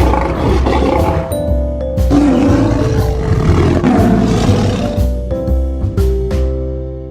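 Big cat roaring again and again, over background music that fades out near the end.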